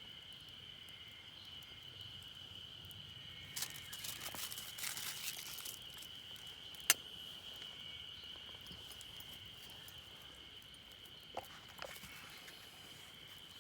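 Steady, unbroken high-pitched insect trill, with a patch of light clicks and crackles about four seconds in, one sharp click about seven seconds in and two faint ones near the end.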